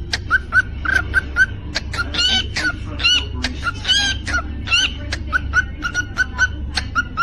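Cockatiel chirping: short, same-pitched notes about three to four a second, broken in the middle by a few longer, louder whistled notes that rise and fall. A steady low hum runs underneath.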